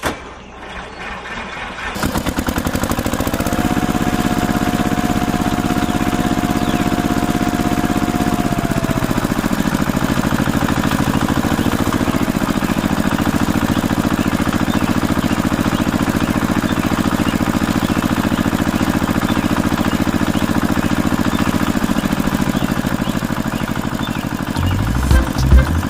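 Small engine of a DIY mini tractor running steadily with a rapid, even pulsing. It picks up to full level about two seconds in.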